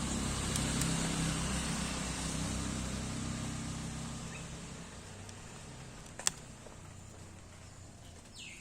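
Low rumble of a passing vehicle, slowly fading away, with one sharp click about six seconds in. Short falling bird chirps begin right at the end.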